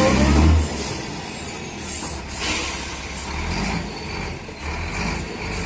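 Heavy truck engine running, with a couple of short hissing bursts about two seconds in.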